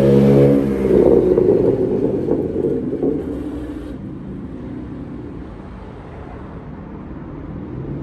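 BMW E93 335i turbocharged straight-six with an aftermarket muffler, held at steady revs and then let off about half a second in; the exhaust bubbles and crackles on the overrun as the revs fall, settling to a low idle that rises slightly near the end.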